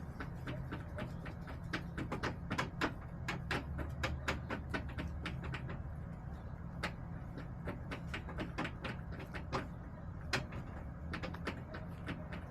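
Chickens pecking at a hard surface: a run of quick, irregular taps, several a second, over a steady low rumble.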